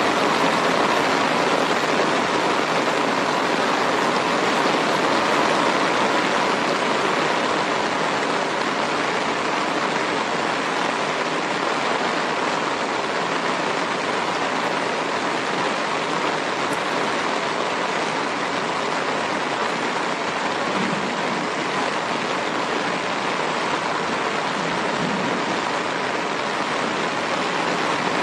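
Steady rain falling on grass and a muddy, puddled dirt track: an even hiss of drops that barely changes.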